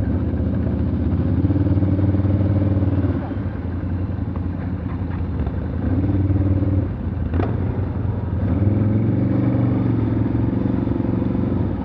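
Off-road vehicle engine revving hard in three surges as it works over logs lying across a forest track, with a single sharp knock about seven seconds in.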